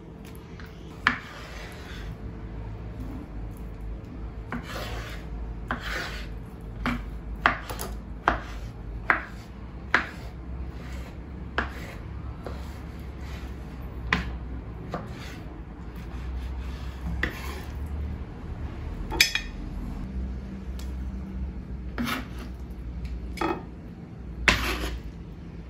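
Kitchen utensils scraping and clinking on dishes in irregular strokes about once a second, over a steady low hum.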